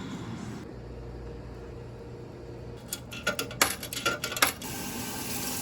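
A quick run of light clinks and clatters, about a dozen in a second and a half, over a low steady hum; a steady hiss comes in near the end.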